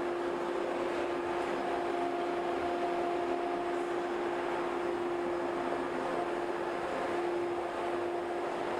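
Steady noise inside a train car, with a constant low hum tone running through it and no sudden sounds.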